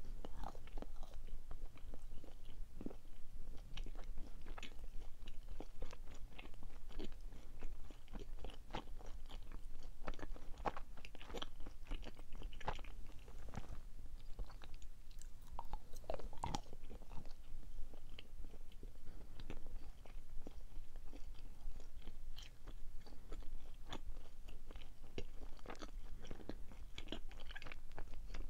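Close-up chewing and mouth sounds of a person eating chocolate sweets, with many small sticky clicks scattered throughout.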